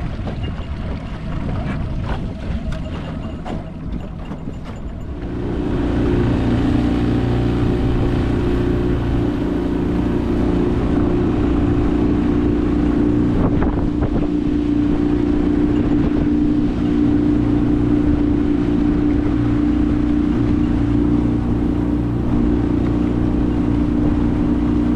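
Small boat's outboard motor running under way; about five seconds in it speeds up and settles into a louder, steady drone.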